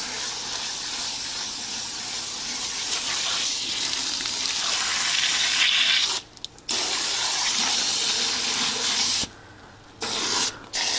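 Hose spray hissing as water is blasted through a window air conditioner's dirty finned coils. The spray cuts off briefly about six seconds in, stops about three seconds later, then comes back in two short spurts.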